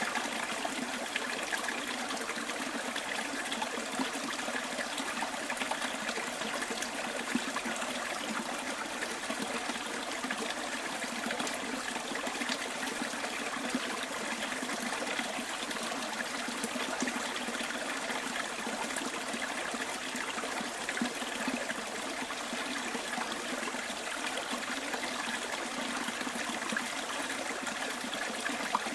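Stream trickling: a steady, unbroken flow of running water.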